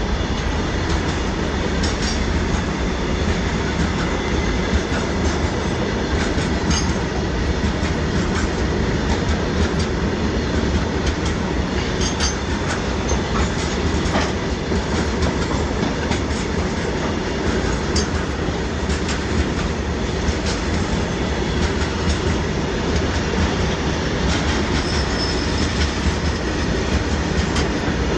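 Loaded BCNA covered goods wagons rolling past at close range: a steady rumble of steel wheels on rail, with clicks and clacks as the wheels run over rail joints. A faint high wheel squeal comes in briefly near the end.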